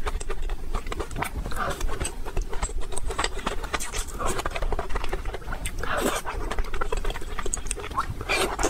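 Close-miked eating sounds: wet chewing, lip smacking and mouth clicks as mouthfuls of rice and soft, saucy braised vegetables are taken with chopsticks and chewed, with a thick run of small clicks throughout.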